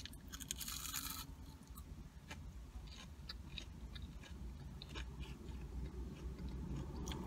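A crisp crunching bite into crispy fried food in the first second, then chewing with scattered small crunches. A low steady rumble of road traffic runs underneath.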